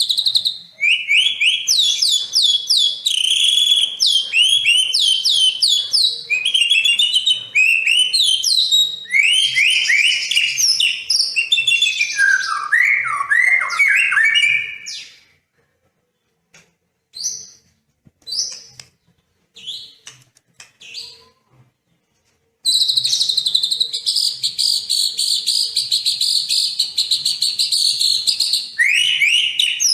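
Songbird singing loudly: a fast, varied song of quick down-slurred whistled notes for about fifteen seconds, then a few scattered short notes, then from about 23 seconds a long, even, high trill.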